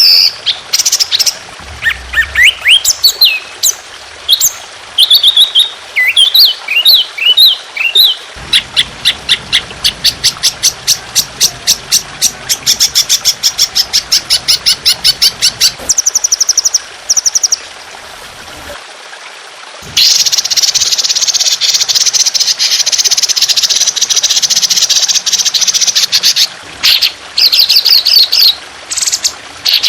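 Trotolan songbird singing its long, harsh 'tembakan' song over gently trickling water. Whistled notes give way to a long, fast trill of about five notes a second. After a short pause, a dense, rough burst of song lasts several seconds, and more short phrases follow near the end.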